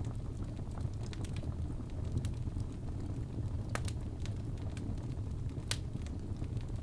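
Wood fire burning in a fireplace: a steady low rumble of the flames with scattered sharp crackles and pops, two louder pops nearer the end.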